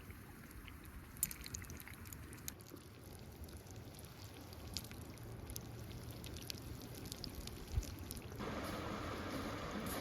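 Water pouring, with scattered small clicks; a louder, steady rush of it begins about eight seconds in.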